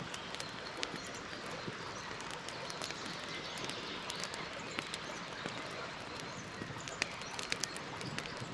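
Wood fire burning: a steady hiss and rustle with many small crackles and pops, and a few louder snaps near the end.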